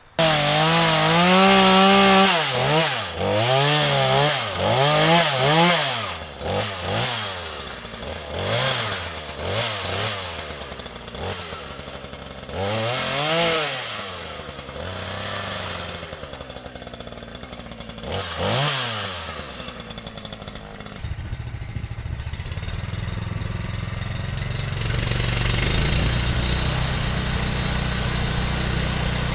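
Small gasoline engine starting abruptly and being revved up and down over and over. It then settles into a steady, lower run that gets louder later on.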